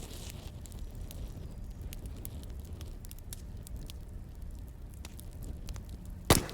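Wood fire crackling over a low steady rumble, with small irregular pops and one loud sharp pop near the end.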